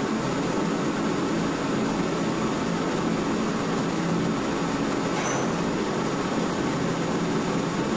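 Mr. Heater 60,000 BTU forced-air propane heater running: a steady blower-and-burner noise that holds at one level throughout.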